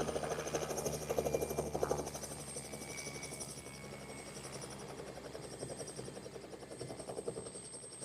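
Turbine helicopter running: a fast rotor chop with a high turbine whine over it, growing fainter from about two seconds in.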